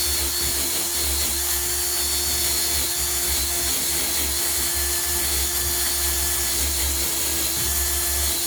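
Cheap electric drill running continuously at a steady speed.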